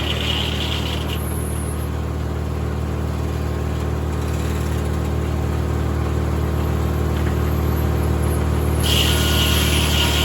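Tractor-driven 1950 Corley circular sawmill running steadily, the tractor engine's hum constant. A higher hiss joins for about the first second and again near the end.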